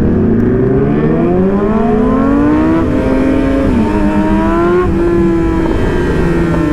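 Sport motorcycle engine under way, rising in pitch as it accelerates, dropping sharply near four seconds in at a gear change, then climbing again and settling to a steady pitch, with wind rush.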